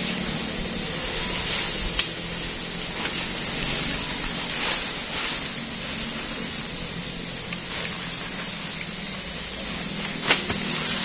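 A steady, high-pitched insect drone, as of crickets or cicadas in forest, unbroken and loud, with a few faint scattered clicks and rustles.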